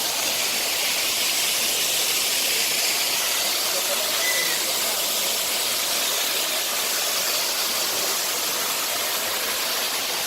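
A steady, even hiss, strongest in the high range and unchanging in level throughout.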